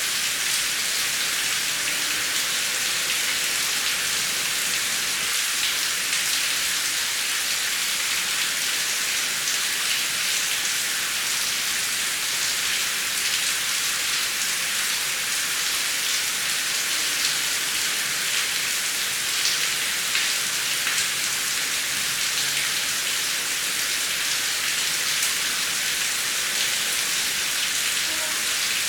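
Heavy rain falling steadily, a dense even hiss of drops hitting surfaces with many small individual drop ticks, with no thunder.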